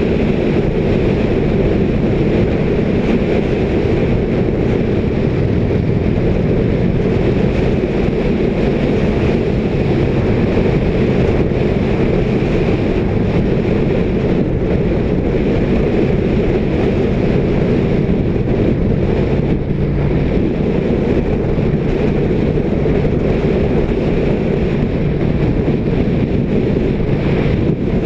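Indian motorcycle's V-twin engine running steadily on the move, under heavy wind noise on the microphone.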